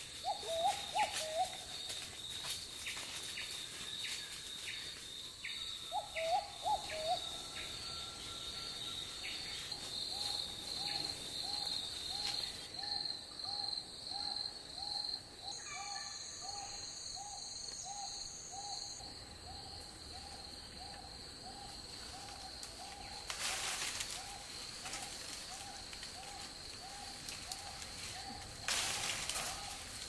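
A bird giving short hooting notes, first in a few brief clusters and then in an even series of a little under two notes a second, over the steady high trill of insects.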